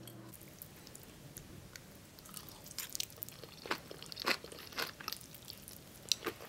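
Close-up eating sounds: someone chewing a mouthful of cold noodles with raw vegetables, with irregular crisp crunches starting about two seconds in.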